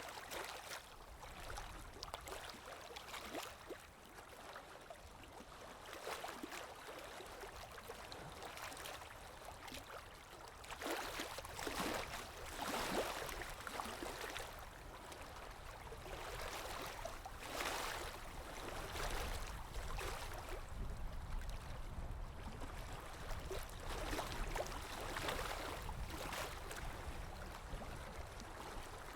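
Ambient recording of water lapping with wind: soft washes of water come and go every second or few, over a low, steady rumble of wind.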